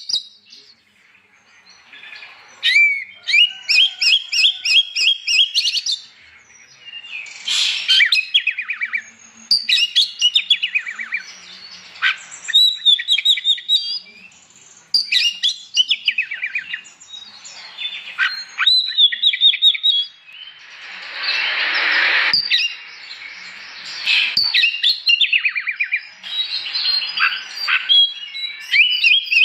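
Oriental magpie-robin (kacer) singing in full voice: bouts of loud, varied whistles and fast trills, a few seconds each, broken by short pauses. About two-thirds of the way in, a harsh, noisy rasp.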